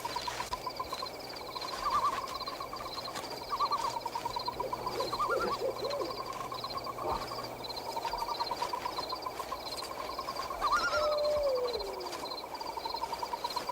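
Night-forest sound effects: a steady, rapidly pulsing chirping chorus of night creatures, with a few short animal calls around the middle and a falling call near the end.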